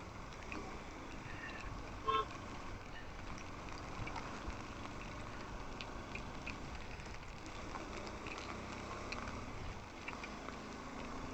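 Steady road and wind noise from riding in the rain, with one short vehicle horn toot about two seconds in.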